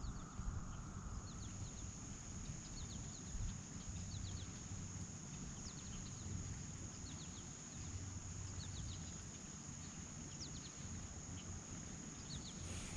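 Faint outdoor ambience: many short, high chirps of small birds scattered throughout, over a steady high-pitched hum and a low rumble.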